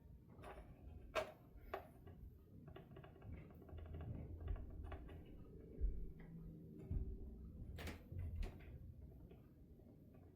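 Faint scattered clicks of a metal fret rocker being rocked across guitar frets. The clacking is the sign of a high fret.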